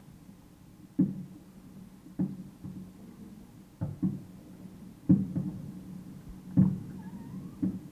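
Fireworks going off in the distance: a string of dull, low bangs, roughly one a second at an irregular pace, some coming in quick pairs, with a faint rising whistle near the end.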